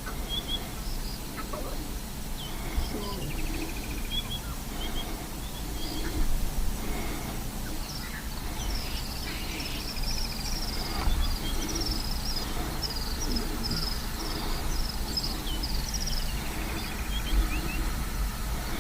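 Birds chirping: many short high calls, some in quick series and a few trills, over a steady low background rumble.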